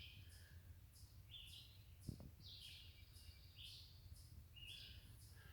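Faint birdsong: several short chirping calls spaced a second or so apart, over an otherwise near-silent background, with a soft tap about two seconds in.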